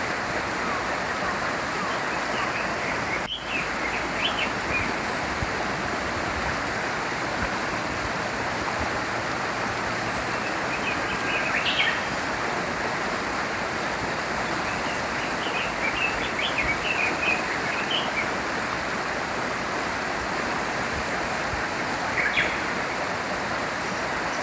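Small stream flowing steadily, with songbirds chirping in short bursts several times over it.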